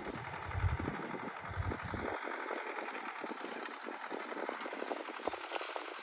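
Sonalika DI 30 tractor's diesel engine running with a rapid, even beat of firing strokes, with low thumps during the first two seconds.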